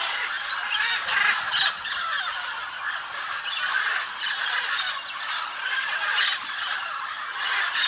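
Parrots chattering and squawking together: a dense, continuous jumble of short calls with no pauses.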